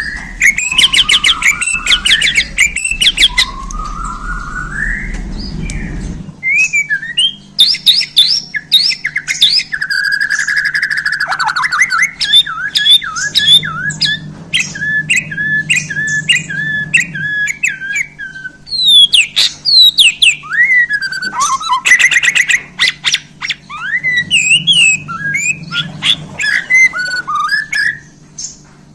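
White-rumped shama (Bornean murai batu) singing a long, varied song of loud whistles, rising glides, fast trills and quick runs of repeated notes, over a steady low hum.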